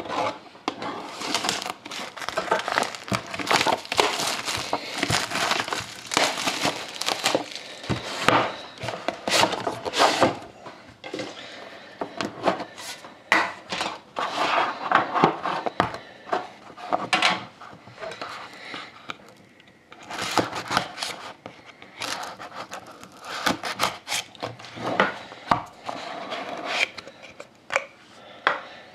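Plastic wrapping crinkling and tearing, with cardboard rustles and light knocks, as a sealed box of trading cards is unwrapped and opened by hand. The crackling is irregular and comes in bursts, with a short lull about twenty seconds in.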